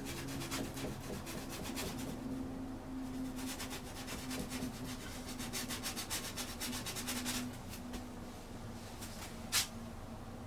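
Paintbrush scrubbing oil paint onto canvas in quick, repeated scratchy strokes, with one sharper stroke near the end.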